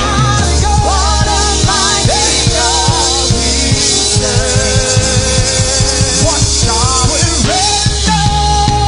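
Live gospel band playing a loud, fast praise break: a drum kit hitting rapid, even strokes over a steady bass, with sustained, wavering melody lines on top.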